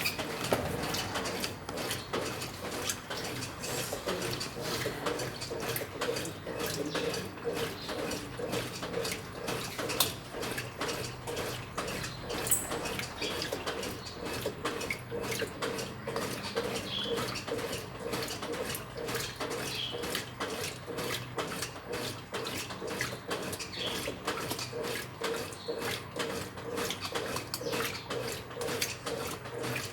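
Brastemp 9 kg washing machine in its wash cycle: water sloshing and splashing in the drum, with a pulsing tone that repeats a few times a second as the load is agitated.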